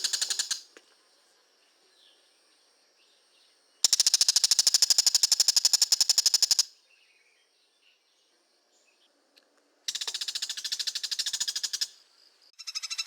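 Oriental magpie-robin (kacer) giving its long ngekek call: runs of rapid, evenly pulsed high chattering notes, each two to three seconds long. One run ends just after the start, another comes about four seconds in, a third about ten seconds in, and a fourth starts near the end, with near-quiet pauses between.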